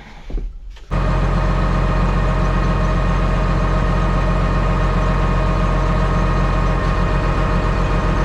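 The common-rail diesel engine of a John Deere 724J loader running at idle, coming in abruptly about a second in after a few faint clicks. About seven seconds in, the running takes on a regular, uneven pulse; the engine has a misfire that is being tracked down.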